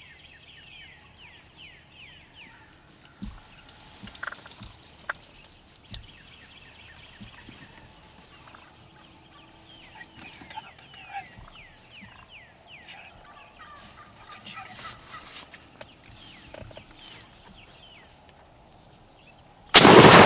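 Wild turkeys gobbling and calling over a steady high insect drone, then near the end a single very loud shotgun blast that rings out and dies away.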